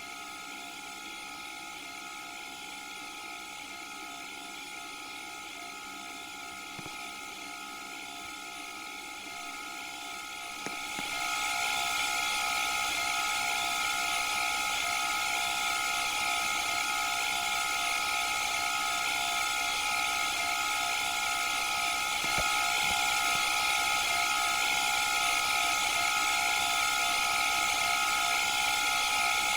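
Candy washing machine running with a steady whine made of several fixed tones over a hiss. It gets clearly louder about eleven seconds in, and a little louder again around twenty-two seconds.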